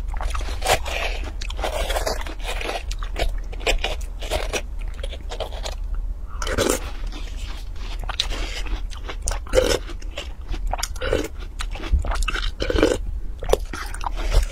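Watermelon being eaten: crisp, wet crunching and chewing of the flesh, mixed with a metal spoon scraping and scooping into a half watermelon. Several short crunches a second over a steady low hum.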